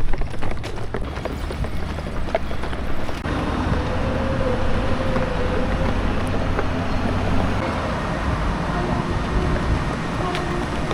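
Footsteps on a hard surface for about three seconds. Then, suddenly, the steady drone of a small ferry's engine takes over, with a few held low tones and wind on the microphone.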